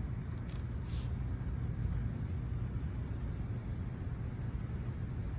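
Steady high-pitched chorus of crickets, over a constant low rumble.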